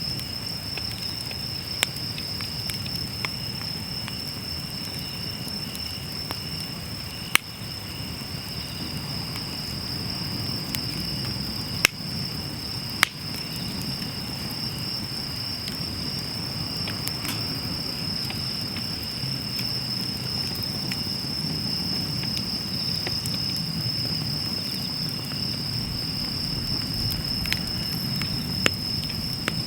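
Wood fire burning in a fire pit: a low rumble of flames with a handful of sharp crackling pops, the loudest about twelve and thirteen seconds in. A steady high insect trill runs throughout.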